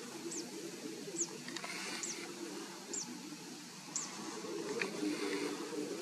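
A small bird repeating a short, high call that falls in pitch, about once a second, five times. A steady, wavering low drone runs underneath.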